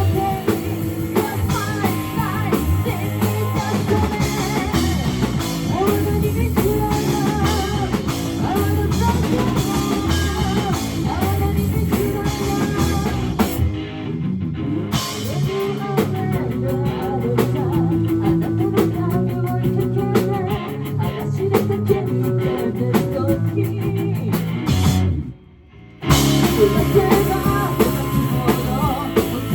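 Rock band playing live: drum kit, guitar and a singing voice. Near the end the band stops dead for about a second, then crashes back in.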